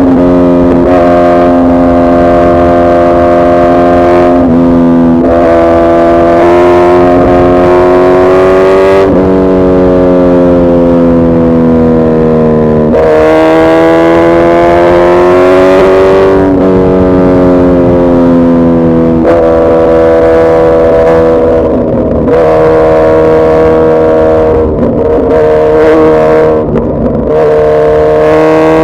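Suzuki Hayabusa's inline-four engine running steadily at mid revs while under way. Its pitch drifts gently up and down, with a sudden small step every few seconds.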